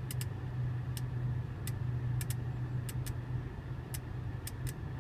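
Steady low hum of the 2014 Audi S6's 4.0-litre twin-turbo V8 idling, heard from inside the cabin. Over it come about a dozen short, irregular clicks from the MMI rotary control knob being turned and pressed.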